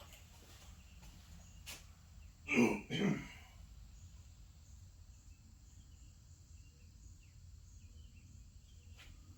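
A man's short cough in two quick parts, about two and a half seconds in, over a faint steady low hum.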